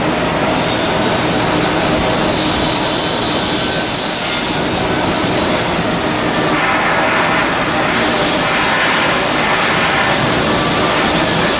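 Steady industrial machinery noise, with a harsher hiss from about six and a half to ten seconds in.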